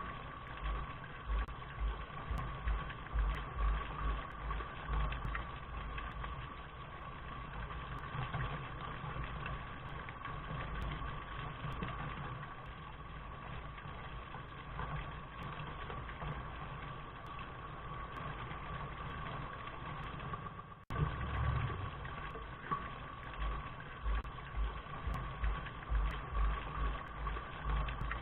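Steady rain hiss over an uneven low rumble, which cuts out for an instant about three-quarters of the way through.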